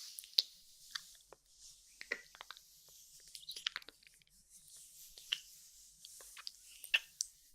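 Close-miked ASMR mouth sounds: irregular wet clicks and lip smacks, over a faint hiss.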